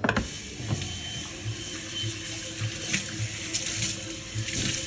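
Kitchen tap turned on, running water splashing steadily into a sink.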